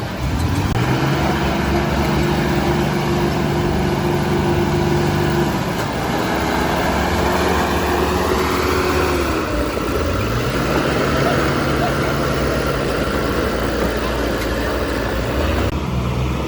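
Diesel engine of a heavy construction machine revving up under load, holding steady for several seconds, easing off, then revving up again.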